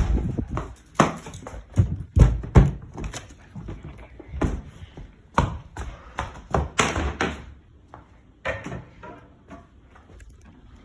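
Irregular sudden thumps and knocks in a violent windstorm, some with a deep boom, coming thick for the first seven or eight seconds and then thinning out.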